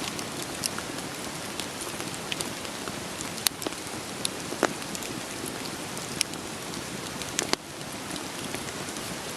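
Steady rain falling, with scattered sharp pops and crackles of burning firewood; a few louder snaps stand out.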